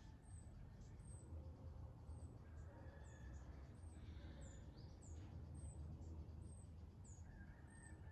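Faint bird chirping: a short, high, falling note repeated about once a second, over a low steady background hum.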